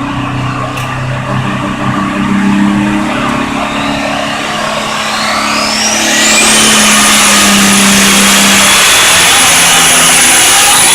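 Modified pulling tractor's engine under hard throttle during a pull. A high whine rises over a couple of seconds, and from about six seconds in the engine holds loud and steady.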